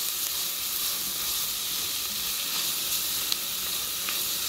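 Chopped onion and leek sizzling in butter in a stainless steel pot over medium heat, a steady frying hiss. A couple of faint ticks come near the end.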